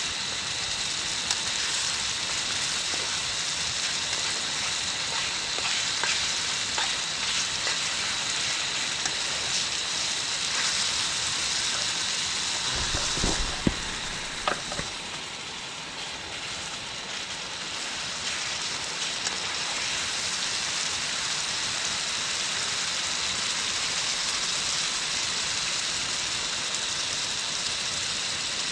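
Vegetable curry sizzling and frying in a pan, with occasional small clicks of stirring and a single low thump about thirteen seconds in. Crickets trill steadily in the background.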